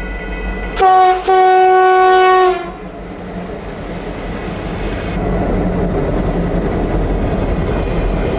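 Locomotive air horn sounding a short blast and then a longer one, after which the rumble of the passing train builds steadily louder.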